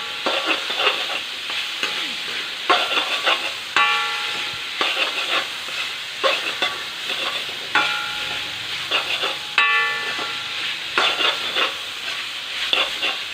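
Sliced onions frying in hot coconut oil, a steady sizzle under irregular scrapes and clinks of a spatula stirring them in the pan, about one or two a second.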